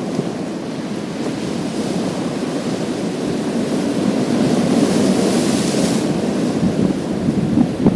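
Sea waves breaking and washing over a pebble beach: a steady rushing surge, with a hiss that swells in the middle and cuts off about six seconds in.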